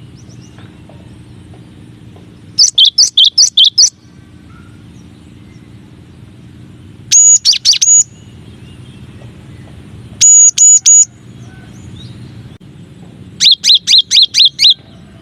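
Cinereous tit (gelatik batu) singing: four bouts of quickly repeated high whistled notes, each bout about a second long.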